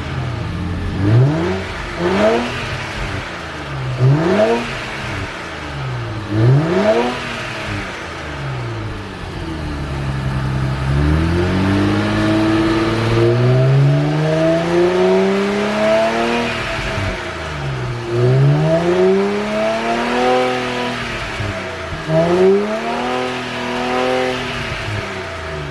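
Nissan Skyline 400R's VR30DDTT twin-turbo V6 exhaust, through an HKS Legamax Sports muffler with a Fujitsubo center pipe, being revved while the car stands still. There are several quick throttle blips, then three longer, slower revs that rise and fall back toward idle.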